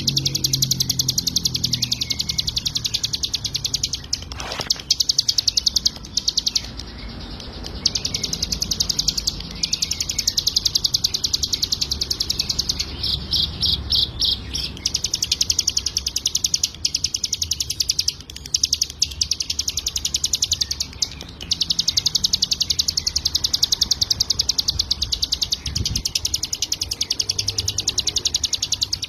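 Ciblek gunung, a prinia, singing non-stop in a very fast, unbroken run of high, rapidly repeated chirping notes, with only a brief break about seven seconds in.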